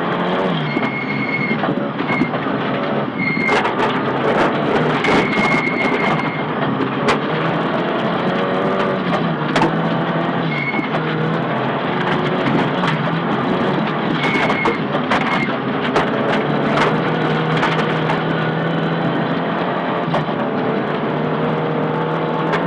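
Onboard sound of a Nissan Silvia S15 rally car driven hard at speed: the engine note climbs and drops again and again through gear changes, with frequent sharp knocks and clatter from the car over the stage surface.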